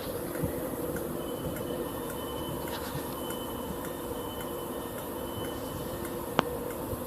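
Class 331 electric multiple unit giving a steady electrical hum, with a faint high whine over most of it. A single sharp click about six seconds in is the loudest sound.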